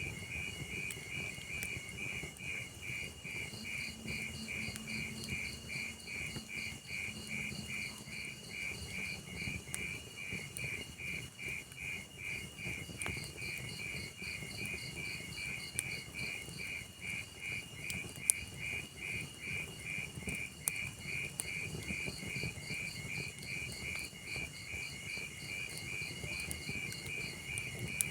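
Crickets chirping in a steady, evenly pulsing rhythm over the low crackle of a wood fire, with a few sharp pops from the burning logs, the loudest about two-thirds of the way through.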